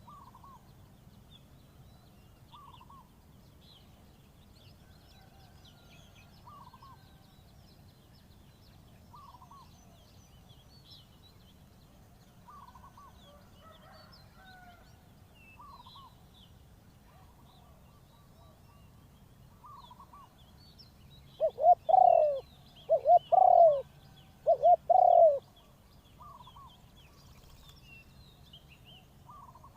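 Spotted dove cooing, with a loud phrase of three coos about two-thirds of the way in. Fainter short bird calls repeat every few seconds, and small birds chirp faintly in the background.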